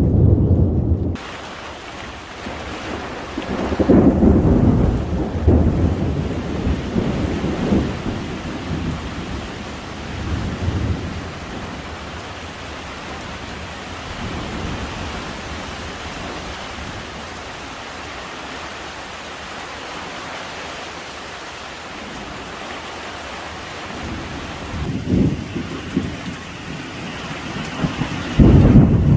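Heavy rain falling steadily, with several long rolls of thunder rumbling through it: one right at the start, a long one a few seconds in, and two more near the end.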